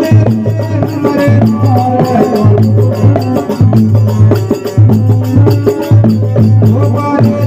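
Marwari desi veena bhajan, a Rajasthani devotional folk song, playing with a steady percussion beat under a melodic line.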